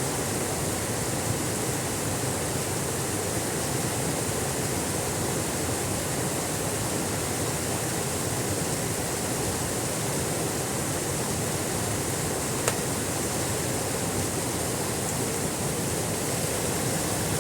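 Small waterfall with a weak flow, its falling water making a steady, even rush. A single faint click sounds about three-quarters of the way through.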